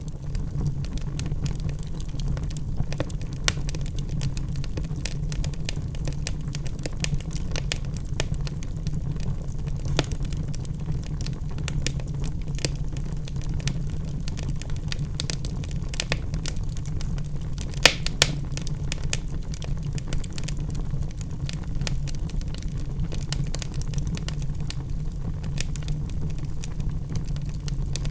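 Wood fire burning in a fireplace: a steady low rumble of the flames with frequent sharp crackles and pops from the burning logs, a loud pair of pops about two-thirds of the way through.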